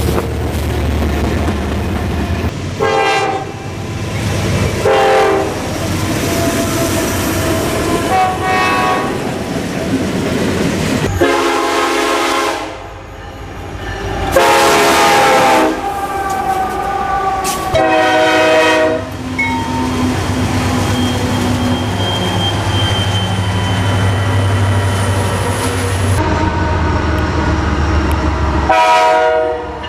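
Freight train hauled by BNSF diesel locomotives passing, the locomotive's air horn sounding a series of blasts, the longest near the middle, over the steady rumble of the diesel engines.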